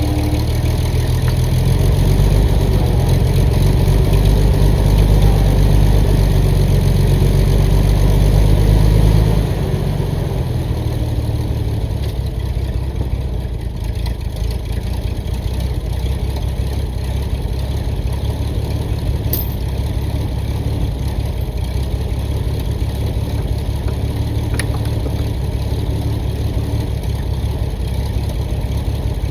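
Engine of the machine lifting the engine out, running steadily under light throttle, then eased back to a lower idle about nine seconds in.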